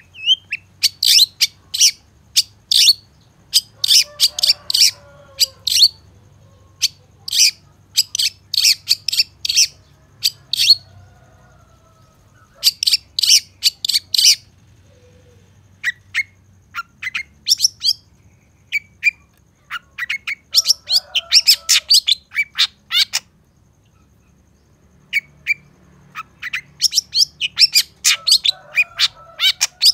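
Long-tailed shrike (cendet) singing: fast runs of sharp, high chirps in bursts lasting several seconds, broken by two short pauses, with a few lower warbled notes mixed in.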